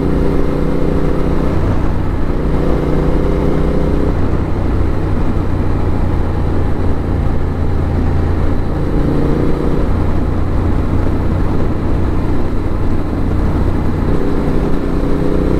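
Yamaha 689 cc parallel-twin motorcycle engine running steadily on the move, its note strengthening a few times, under a constant rush of wind on the helmet-mounted microphone.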